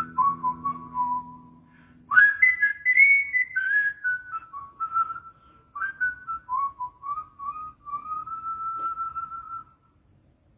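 Whistled melody closing a country song: a single whistled tune over a fading low final chord, then unaccompanied whistled phrases that stop about a second before the end.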